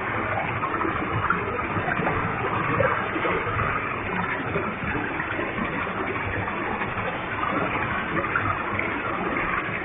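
Waterfall with a heavy flow of water, a steady dense rush of falling water and splashing.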